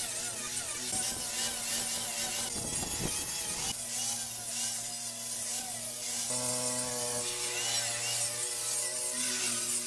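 Wood being cut or rubbed with a tool, a rasping sawing sound over a steady hum.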